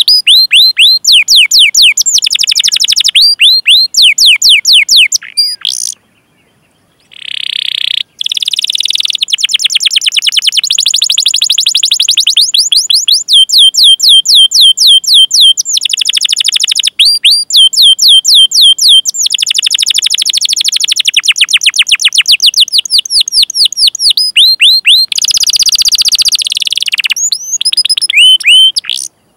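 Domestic canary singing: long rolling runs of rapid falling chirps, about ten a second, the 'cuit cuit' call phrases, with a brief pause about six seconds in and a harsher, buzzier phrase near the end.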